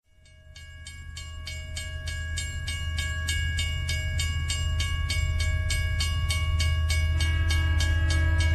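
Model express train running: a steady low hum with even clicking about three times a second and several sustained tones over it, growing louder from silence. More tones join about seven seconds in.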